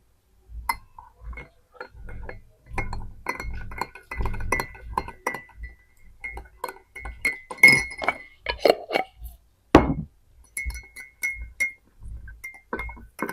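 A spoon clinking repeatedly against a bowl of soup, irregular taps with short high ringing notes, and one louder knock near the end.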